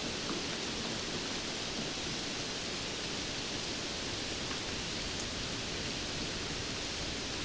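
Steady rainfall, a constant even hiss with a few faint drop ticks.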